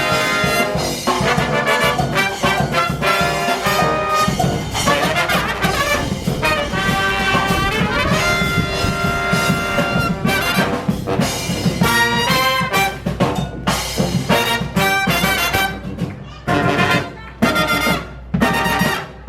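Live brass band playing a lively tune, horns with drum behind them. In the last few seconds the playing breaks into short punchy stabs with gaps between them.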